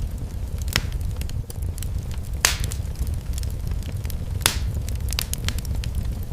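Wood fire in a fireplace crackling over a steady low rumble, with scattered sharp pops; the two loudest pops come about two and a half and four and a half seconds in.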